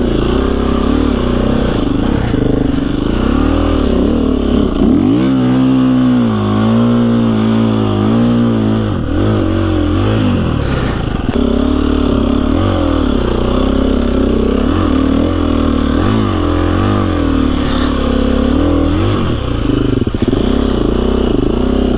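KTM 350 EXC-F dirt bike's single-cylinder four-stroke engine, its revs rising and falling again and again under constant throttle work as the bike is ridden through deep snow.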